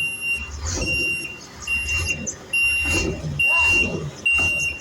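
Garbage truck's reversing alarm beeping about once a second, six beeps in a row, over the low rumble of its diesel engine.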